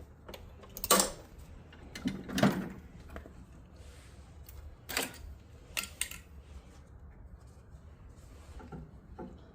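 Scattered sharp clicks and clunks of metal tools and parts being handled on a small snowblower engine while it is readied for a spark check, the loudest knock about two and a half seconds in.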